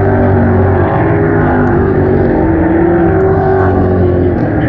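Several race car engines running together at high revs on an oval track, a steady layered engine sound with pitches that waver slightly as the cars lap.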